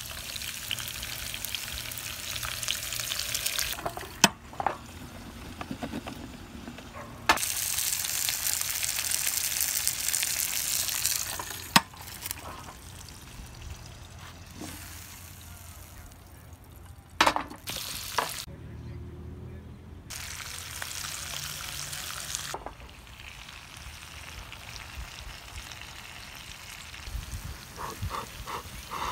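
Vegetables sizzling in a hot sandwich maker, a double-sided pan. The sizzle comes and goes in spells and is loudest for a few seconds before the middle. A few sharp metallic clanks from the pan are heard along the way.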